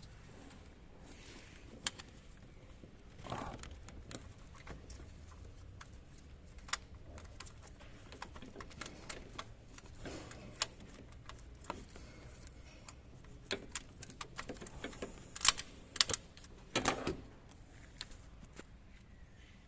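Hand tools and metal engine parts clinking and clicking during engine work: scattered, irregular light metallic clicks and knocks, with a few sharper clinks grouped near the end.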